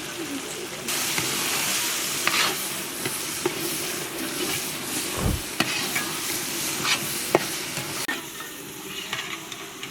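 Food sizzling as it fries in a pan, with short clinks and scrapes of a utensil stirring it. The sizzle grows louder about a second in and eases off near the end.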